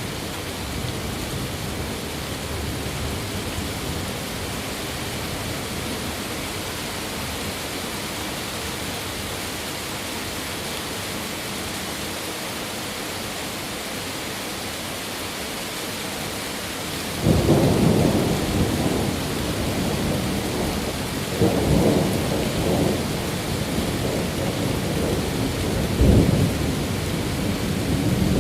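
Steady rain falling. About two-thirds of the way through, a roll of thunder breaks in suddenly as a loud low rumble, and it swells again twice before the end.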